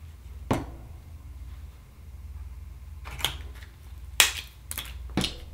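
A handful of sharp clicks and taps from small hard objects being handled: one about half a second in, then several more in the second half, over a low steady background hum.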